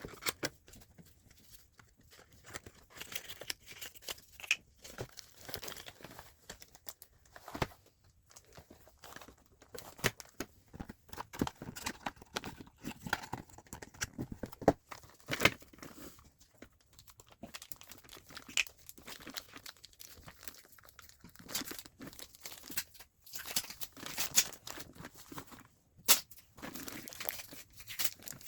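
Paper and plastic packaging being handled by hand: irregular crinkling and tearing, with scattered small clicks and taps.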